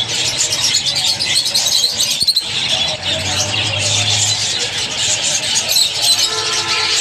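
A flock of lovebirds chattering: many quick, high chirps overlapping densely, with a faint low hum a few seconds in.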